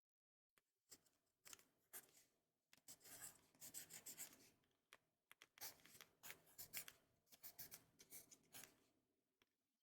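Faint writing on paper: a run of quick scratchy strokes in short bursts with brief pauses, someone working out a problem by hand.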